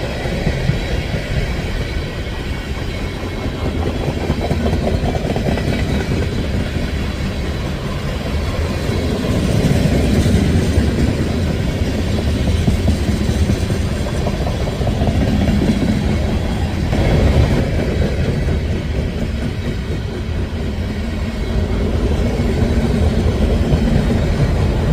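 Freight cars of a CSX train, covered gondolas among them, rolling past on the rails at speed: a steady, continuous rumble and rattle of steel wheels on track with no break.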